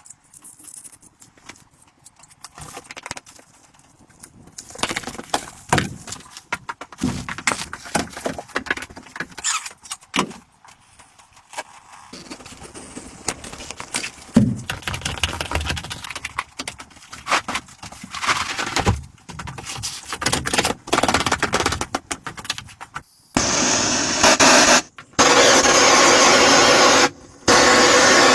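Woodworking sounds: scattered knocks, clicks and scraping of tools and wood being handled. About three quarters of the way in, a loud power tool starts running, cutting out briefly twice before running on.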